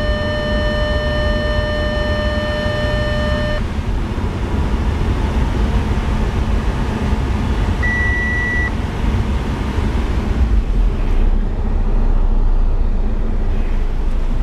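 Audi CAEB 2.0 L turbocharged four-cylinder petrol engine running steadily. A steady beep tone sounds for the first three or so seconds, and a short high beep about eight seconds in.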